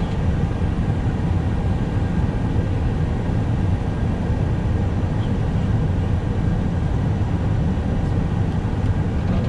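Steady low rumble inside the cockpit of an Airbus A321 on the ground after landing: engine and airframe noise that is even throughout, with no distinct events.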